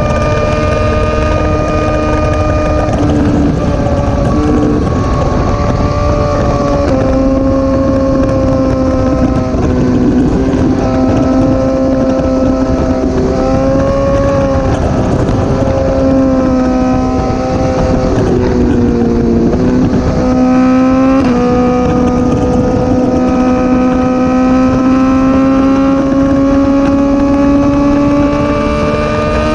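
Motorcycle engine running steadily under way, with wind rushing over the camera mic. The engine note shifts a few times as the throttle changes, dipping around 19 seconds in and climbing back about a second later.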